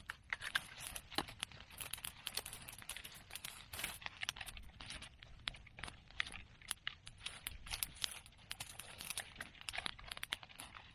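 Bonfire of bamboo and chestnut pruning branches crackling: a dense, irregular run of sharp snaps and pops, several a second, with no big bamboo bursts.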